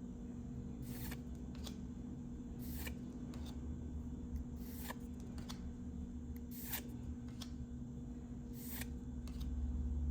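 Yu-Gi-Oh trading cards being flipped through one at a time, a short swish or snap about every two seconds with lighter card ticks between, over a steady low hum.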